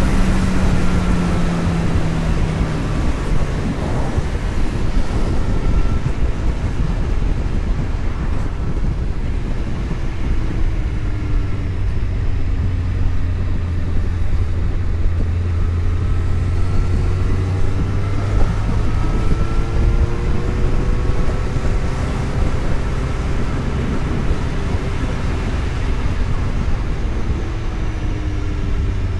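Vehicle engine running while driving, over steady road and wind noise; its pitch drops in the first few seconds and climbs again about two-thirds of the way through as it picks up speed.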